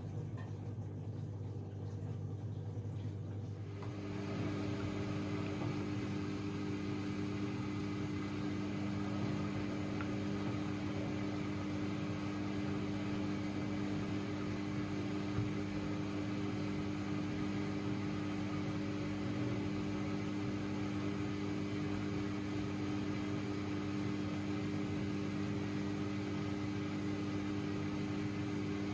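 AEG Lavamat 6610 washing machine running with a steady low hum. About four seconds in, a louder, steady mechanical hum and whir switches on and holds.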